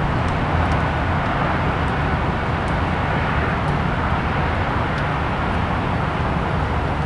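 Steady background noise of distant road traffic, an even wash of sound with no distinct events.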